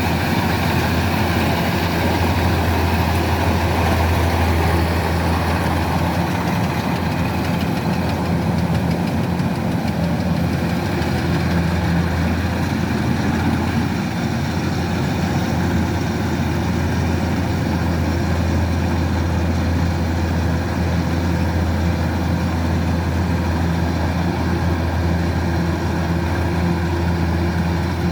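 Kubota DC-105X combine harvester running steadily, a continuous low diesel engine drone with no change in speed.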